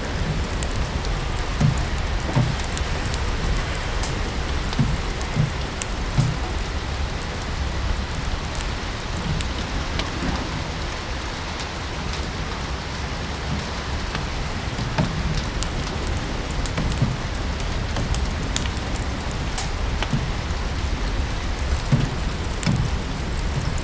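Steady rain falling, with a constant low rumble underneath and the scattered sharp crackles and pops of a wood fire burning in a fireplace.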